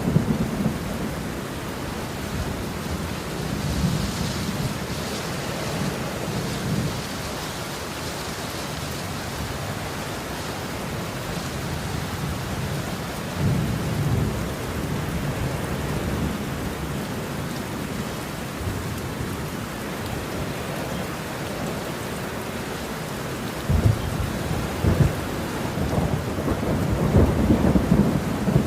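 Steady rain falling through a thunderstorm, with thunder rumbling several times: a swell a few seconds in, another about halfway, and sharper cracks and rolling rumbles in the last few seconds.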